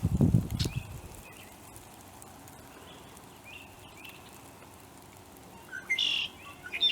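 Footsteps thudding on a dirt trail for about the first second, then small birds chirping faintly, with two louder bird calls near the end.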